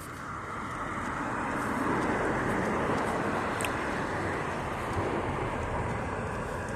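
A passing vehicle, its rushing noise swelling over about two seconds and then slowly fading.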